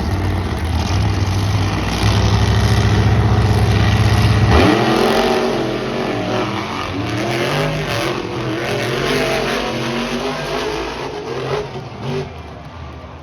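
Monster truck engine running hard: a loud, deep, steady drone for the first four and a half seconds, then revving up and down with throttle changes, with a few sharp knocks, fading near the end.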